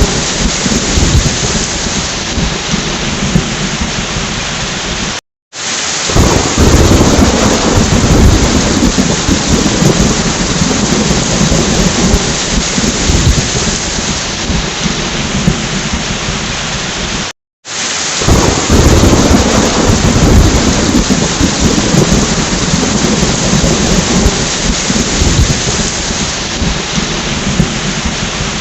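Thunderstorm: steady heavy rain with rolling thunder rumbling low, swelling a second or two after each of two brief moments when the sound cuts out completely.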